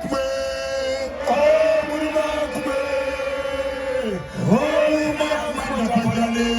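Music with a voice singing or chanting long held notes that bend down and back up in pitch.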